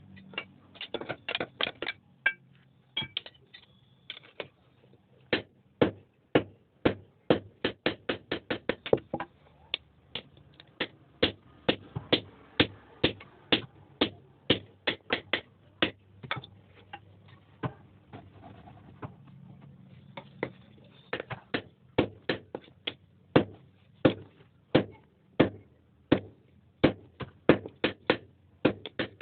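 Hand hammer blows on hot iron on an anvil, forging the axe: sharp ringing strikes in runs of several quick blows, about two to four a second, broken by short pauses.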